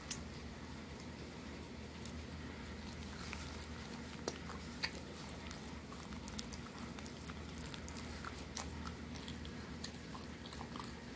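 A person biting and chewing crusty bread topped with chicken salad close to the microphone: scattered small crunches and mouth clicks, the loudest a sharp click just at the start, over a faint steady low hum.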